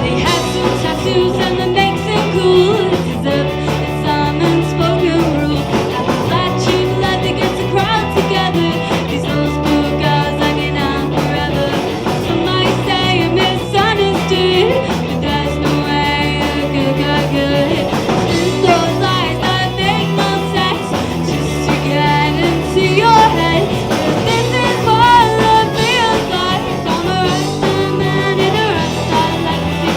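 Rock band playing live with guitar, bass and drums, and a female lead singer singing over them.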